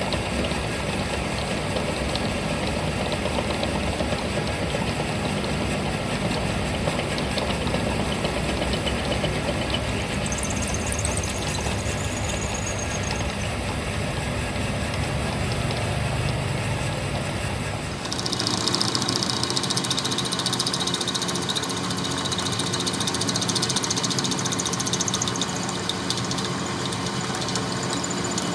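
A machine running steadily. About two-thirds of the way through, the sound changes abruptly, losing its deep rumble and becoming higher and hissier.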